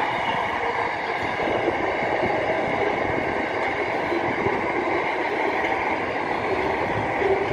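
A freight train's wagons roll past, with the wheels clattering steadily over the rails.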